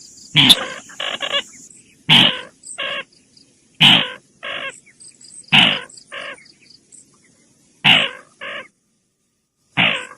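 Lure recording of the sintar bird calling: harsh, caw-like calls in pairs, a longer note followed by a shorter one, repeating about every two seconds.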